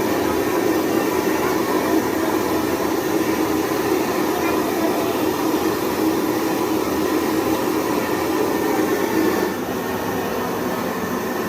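Steady, loud mechanical whirring noise from a running machine, dropping a little in level about nine and a half seconds in.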